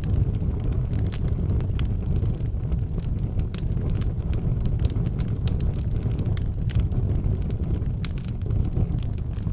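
Wood fire in an outdoor fireplace burning, with a steady low rumble of flames and frequent sharp crackles and pops from the burning wood.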